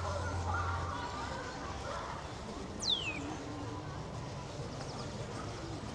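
Murmur of people's voices, with one short high whistle falling steeply in pitch about three seconds in.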